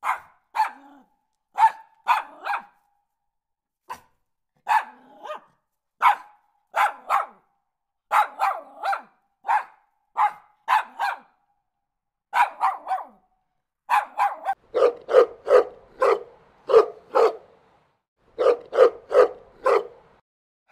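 A dog barking again and again in short bursts of two or three sharp barks with brief pauses between. From about two-thirds of the way through, the barks come quicker and sound deeper.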